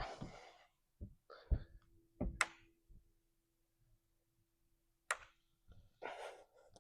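A climber's hands and shoes knocking and scuffing on the holds of a systems climbing board as he moves through a sequence: a few sharp knocks, with short scuffing rushes near the start and near the end.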